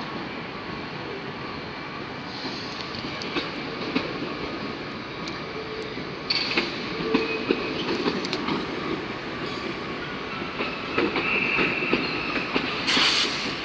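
Class 319 electric multiple unit pulling slowly into a station platform: a steady rumble with wheels clicking over rail joints, a brief high wheel squeal near the end and a short hiss just before it stops.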